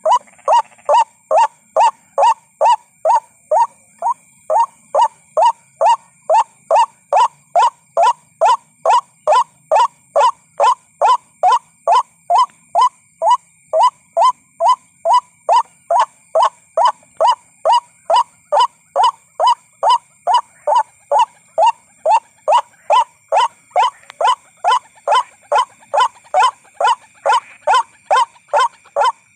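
White-breasted waterhen lure call: one short note repeated monotonously about twice a second, each note falling in pitch.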